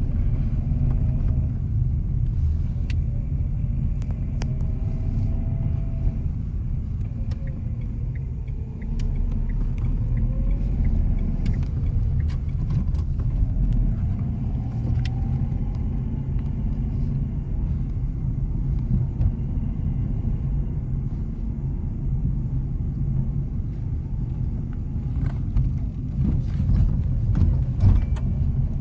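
Nissan Magnite car driving on a hill road: a steady low rumble of tyres and engine, with the engine note gently rising and falling. A cluster of sharp knocks or rattles comes near the end.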